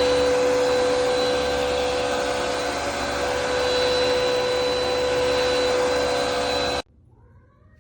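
Hoover bagless upright vacuum cleaner running with a steady whine and air rush, then cutting off abruptly near the end.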